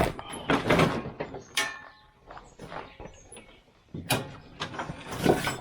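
Irregular metallic clanks and knocks, some ringing briefly, from metal tools and mower parts being handled and set down.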